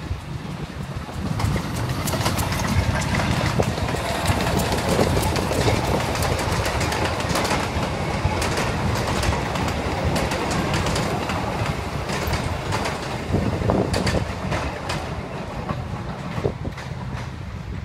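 Narrow-gauge museum train's carriages rolling over a level crossing, wheels clacking over the rail joints. The noise builds about a second and a half in and eases off near the end as the train moves away.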